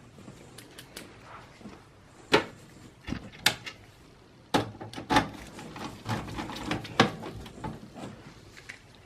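Scattered sharp clicks and light knocks of computer hardware and tools being handled while working on a desktop PC, about half a dozen, irregularly spaced.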